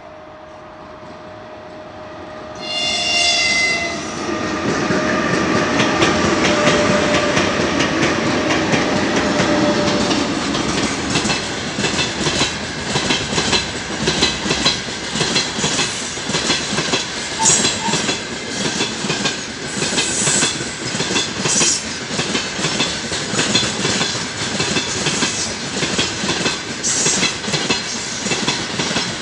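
2ES5K "Ermak" electric locomotives approaching and passing with a heavy freight train. A short horn blast sounds about three seconds in, as a greeting from the crew. Then comes the rumble of the passing train and a steady clickety-clack of the wagons' wheels over the rail joints.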